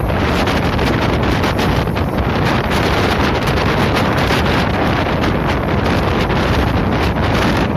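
Steady, loud wind buffeting the microphone at the open window or door of a moving passenger train, with the train's running noise underneath.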